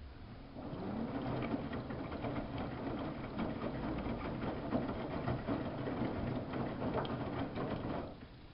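Samsung WF71284 washing machine's motor starting up with a rising whine and turning the drum for about seven seconds with a clatter of rapid ticks, then stopping suddenly.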